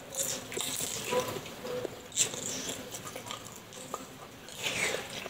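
Close-up eating sounds of spicy boneless chicken feet: wet chewing and mouth noises with scattered small clicks, and a sharp tap about two seconds in.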